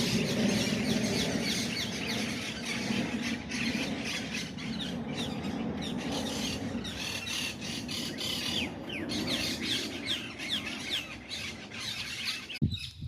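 A flock of birds calling together: many short, high, squeaky notes that fall in pitch and overlap in a continuous chatter, over a steady low hum.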